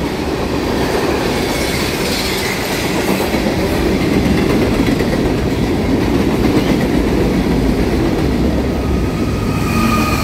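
Loaded freight cars, tank cars and then covered hoppers, rolling past with a steady heavy rumble of wheels on rail and a clickety-clack over the joints. Near the end a steady whine joins in as a Norfolk Southern distributed-power diesel locomotive comes alongside.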